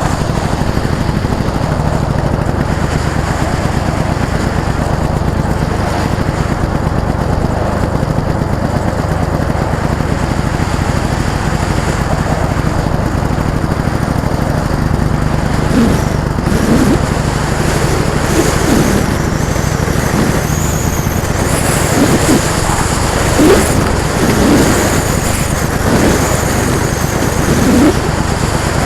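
Several small go-kart engines running steadily around a track. From about halfway on, karts pass close by one after another, each one's engine note sweeping in pitch and rising in level as it goes by.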